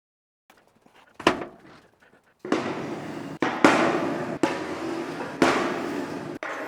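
Steel stock being handled: a sharp metallic bang, then a series of clanks about once a second, each ringing on after the strike.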